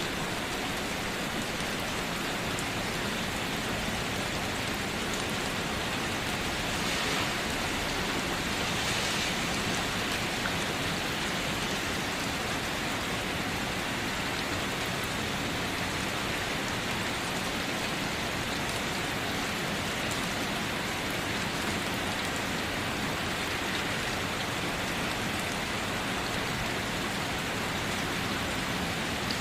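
Steady rain falling on a surface, an even hiss of drops that swells slightly about seven seconds in.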